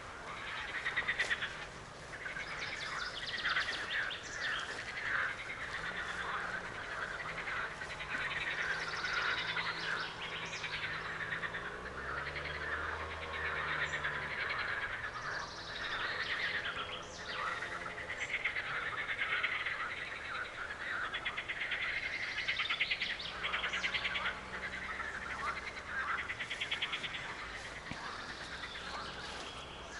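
Several songbirds singing and calling at once, a dense chorus of chirps and trills, over a faint low hum.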